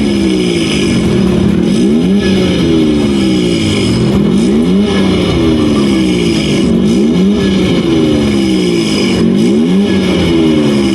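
Car engine revved over and over, likely through an aftermarket performance exhaust; each rev climbs and falls back in pitch, about one rev every second or so, loud throughout.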